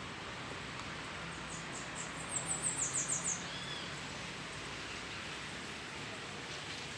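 A small songbird's quick run of high-pitched chirps, about nine notes in a second, starting about two seconds in, over a steady outdoor hiss.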